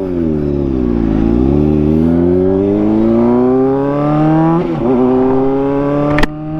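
Honda CBR600RR inline-four engine accelerating: the revs dip for about a second, then climb steadily, fall briefly at a gear change about four and a half seconds in, and climb again. A sharp click comes near the end.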